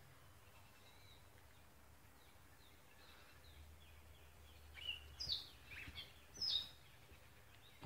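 Birds chirping: a run of short, high notes that starts faintly about three seconds in and grows louder and busier toward the end.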